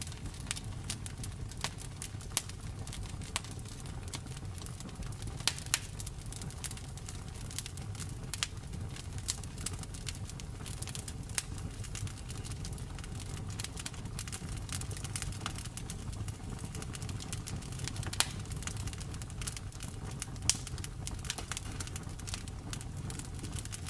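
Wood fire crackling in a fireplace: frequent small snaps and pops over a steady low rumble of flames, with a few louder snaps, one about five and a half seconds in and two more near the end.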